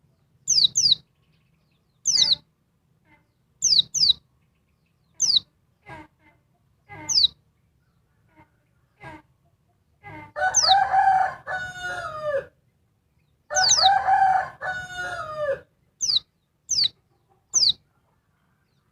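A female white-eye (pleci) calling in short, sharp, high notes that sweep downward, often in quick pairs, every second or two. Two longer rooster crows of about two seconds each come in the middle and are the loudest sounds.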